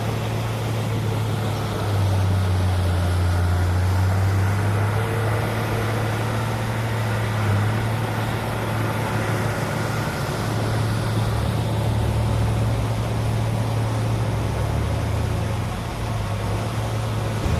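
Heavy diesel engine of earthmoving machinery running steadily under a low hum, growing louder about two seconds in and changing note around eleven seconds.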